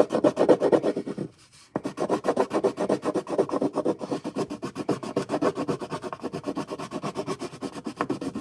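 Coloured pencil scribbling back and forth on paper while colouring in, fast even strokes of about eight a second, with a brief pause about a second and a half in.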